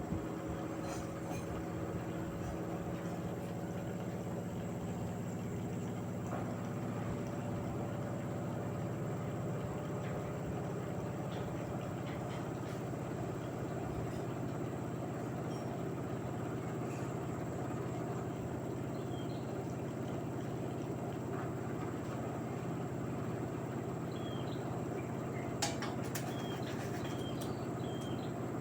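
LG direct-drive washing machine running a Cotton 60°C cycle with a steady motor hum, plus a few faint clicks.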